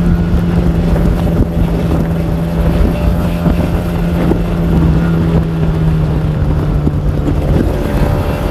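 Kawasaki Ninja R 150's two-stroke single-cylinder engine running at steady high revs, its pitch easing down slightly about six seconds in.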